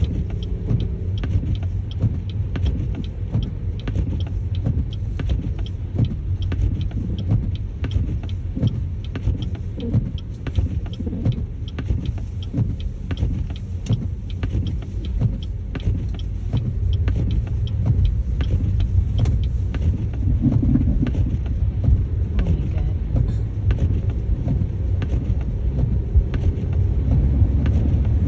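Car driving slowly on a snow-covered road, heard from inside the cabin: a steady low road rumble with many small, irregular clicks and ticks.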